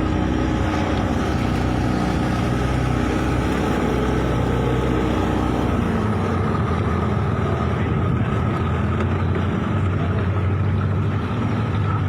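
Engine of a motor vehicle running steadily while travelling, heard from on board; its low hum thins and the pitch shifts about halfway through.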